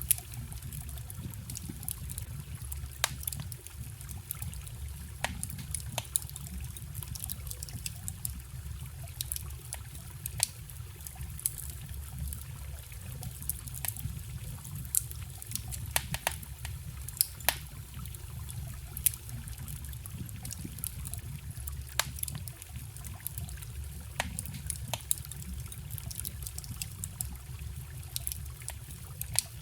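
Wood campfire crackling, with frequent irregular sharp pops, over a steady trickling forest stream.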